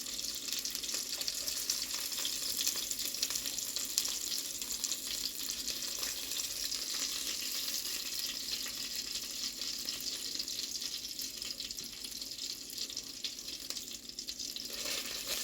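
Chicken pieces frying in a hot pan: a steady sizzle with fine crackling.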